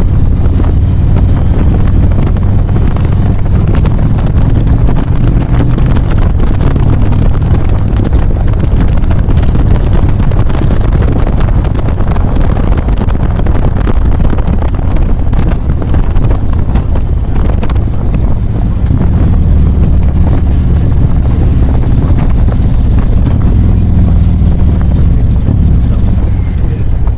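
Motorcycle engine running steadily under way, with heavy wind rushing over the microphone.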